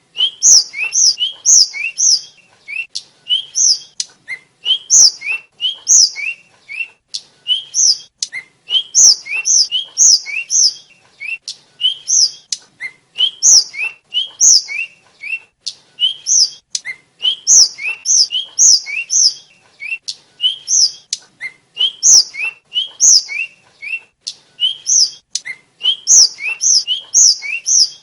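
Tledekan (hill blue flycatcher) singing on and on: quick runs of short, high, clear whistled notes, several a second, sliding up and down in pitch, with brief pauses between phrases.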